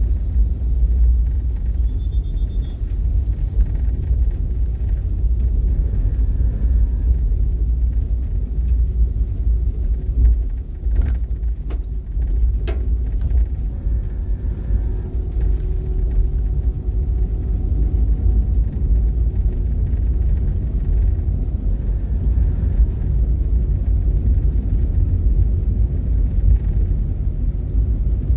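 Steady low rumble of a vehicle in motion, with a few sharp clicks near the middle.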